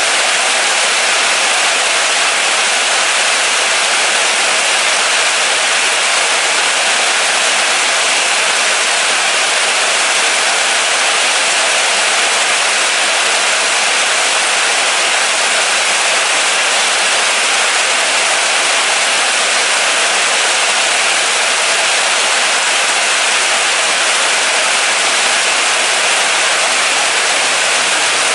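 Steady, moderate rain falling, a constant even hiss with no distinct drops or pauses.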